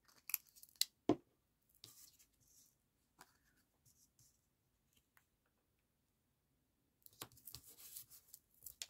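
Paper being handled and pressed down: a few sharp clicks and taps in the first second or so, then faint scattered ticks, and papery rustling near the end.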